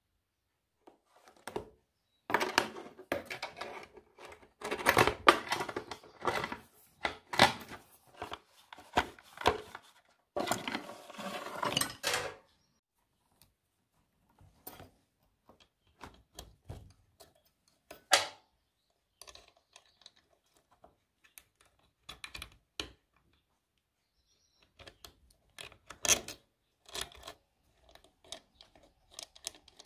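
Small metal parts and hand tools clinking and clattering as they are handled: a dense run of clatter in the first half, then scattered single clicks and taps as the rear brake rod, its coil return spring and adjusting nut are fitted and turned with a wrench.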